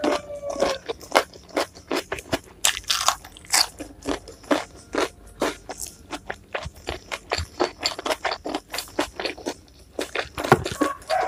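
Close-miked chewing of crunchy food: a steady run of crisp crunches and bites, several each second.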